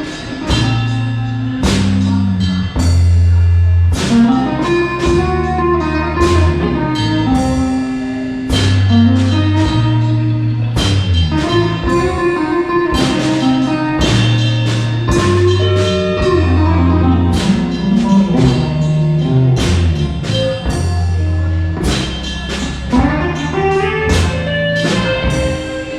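Live blues band playing an instrumental passage of a slow blues: electric bass and drum kit on a slow beat, with a bending lead line over them and no singing.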